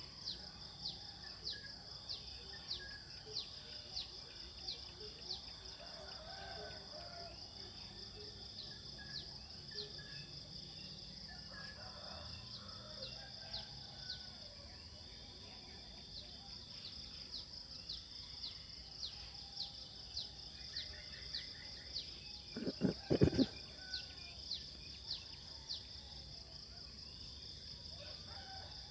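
Outdoor nature ambience: a steady high insect drone with a short, falling chirp repeated less than a second apart, and faint bird calls scattered through. About two-thirds of the way in there is a brief low thud, the loudest thing in the stretch.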